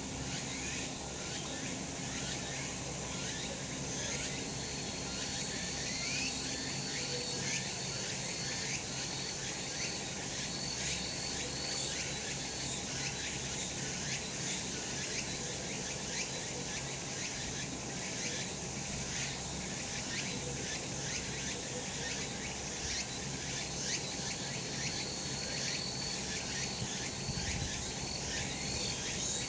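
Cicadas singing in a steady summer chorus: a dense, high, rapidly pulsing buzz, with a thin higher tone coming and going.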